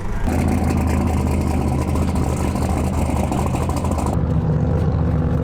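A vehicle engine running steadily at idle. The sound changes abruptly about four seconds in.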